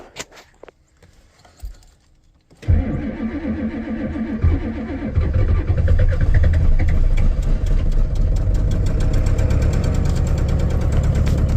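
Ford 7.3 Powerstroke V8 turbo-diesel cold-started at 5°F. After a few faint clicks, the engine cranks and fires about two and a half seconds in, stumbling for a couple of seconds before it settles into a steady, loud idle.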